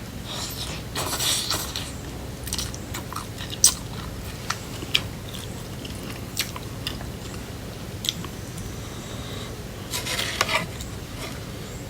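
Close-up chewing and biting of crunchy cucumber salad (Thai tam taeng), with scattered sharp crunches. There are louder stretches of crunching about a second in and again near the end.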